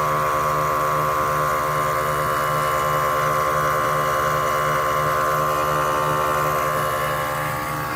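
Steady mechanical drone with a high whine and a low pulse repeating about two to three times a second, easing off slightly near the end.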